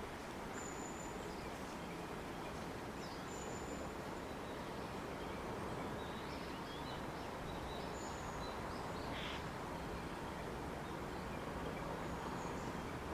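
Summer evening nature ambience: a steady low rush with short, high-pitched calls recurring every few seconds, and a few softer chirps in the middle.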